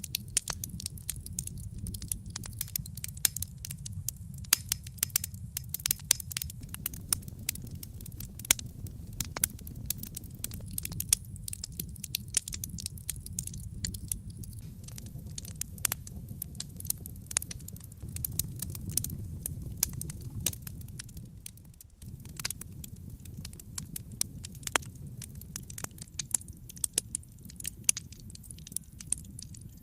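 Wood fire crackling in a fireplace: irregular sharp pops and snaps, several a second, over a steady low rumble. The low rumble dips for a moment about three quarters of the way through.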